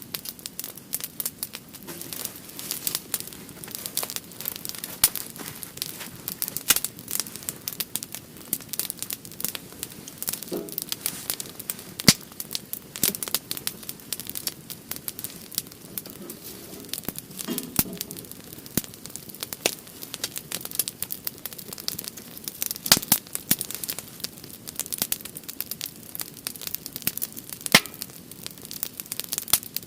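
Firewood burning in a campfire, crackling with irregular sharp pops over a low hiss.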